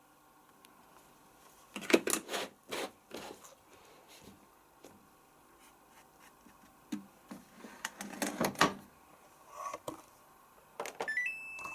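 Plastic detergent drawer of a Samsung Ecobubble washing machine being handled and pushed shut, a few knocks and clatters. Near the end, the machine's control panel gives a short rising beep that settles on one steady tone.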